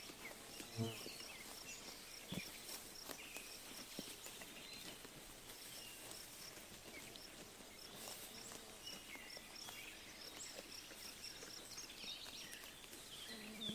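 Quiet sheep-pasture ambience: birds chirping, one giving rapid runs of evenly repeated high notes, with scattered soft clicks of sheep tearing and chewing grass and a brief low animal call about a second in.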